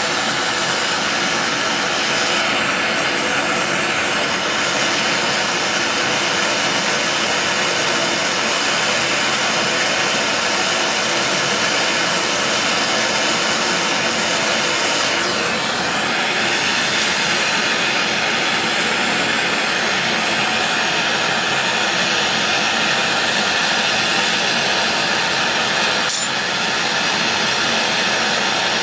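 Handheld gas torch flame, its steady rushing hiss heating seized screws on an old hit-and-miss engine to free them. A single sharp click comes near the end.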